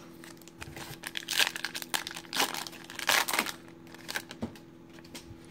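Foil trading-card pack wrapper being torn open and crinkled by hand, a run of crackles lasting about three seconds.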